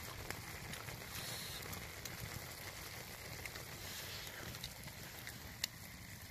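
Wood fire crackling: a few short, sharp pops over a steady low background noise.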